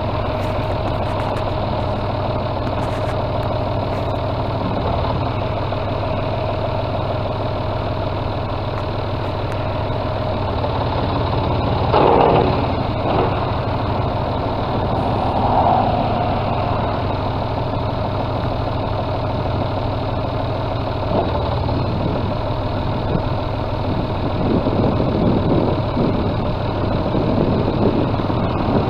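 John Deere 5205 tractor's three-cylinder diesel engine running at a steady idle, with a few brief louder sounds around the middle and near the end.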